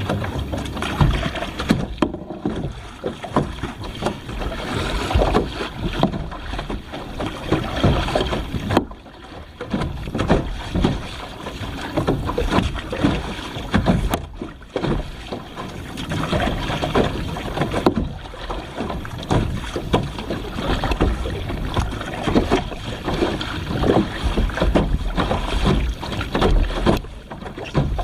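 Water sloshing and splashing around a kayak as it is paddled on the sea, in uneven surges with brief dips, with wind buffeting the microphone.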